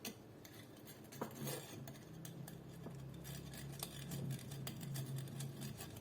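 Small metal clicks, clinks and scrapes of a hand tool working a screw into the metal parts of an airsoft AK, fastening the hop-up chamber. A faint low hum comes in about a second and a half in.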